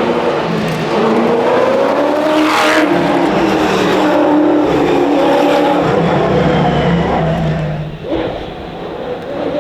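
Giocattolo Group B's Holden V8 racing hard, its pitch climbing and falling repeatedly through gear changes and lifts, with the revs dropping off about eight seconds in.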